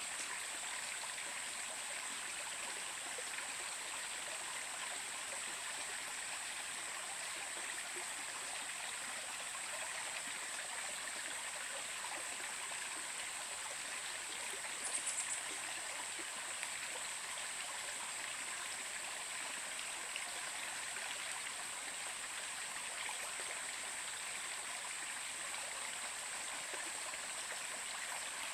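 Stream water flowing steadily, an even rushing with a steady thin high tone above it. A brief flurry of high ticks comes about halfway through.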